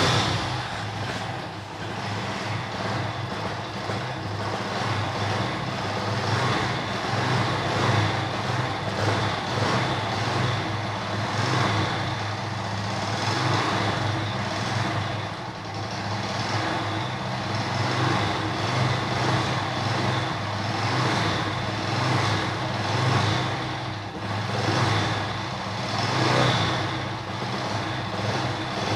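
Mahindra Centuro motorcycle's small single-cylinder four-stroke engine running steadily after a long-idle restart, its level rising and falling every few seconds. A noise in it sounds to the mechanic like a timing problem, and he says it could also be piston knock.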